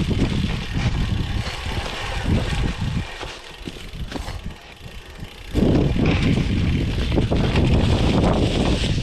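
Wind rushing over the microphone and cyclocross bike tyres rumbling on a trail while riding, easing off for a couple of seconds midway and then coming back loud.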